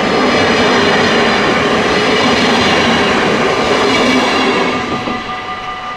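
Train running past a level crossing, its wheels on the rails loud until near the end, when the noise drops away and leaves the crossing's warning bells ringing steadily.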